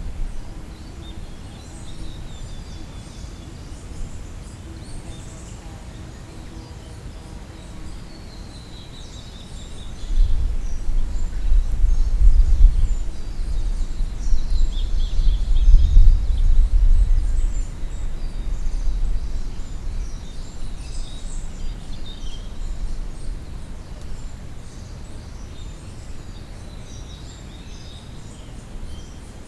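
Songbirds calling and singing in spring woodland: short chirps and trills throughout. A loud low rumble rises about a third of the way in, peaks in the middle, then fades out.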